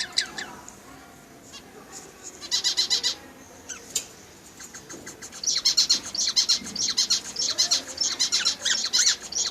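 Budgerigars chattering in rapid, high, repeated chirps: a short burst about two and a half seconds in, then a longer run of chirping from about halfway through.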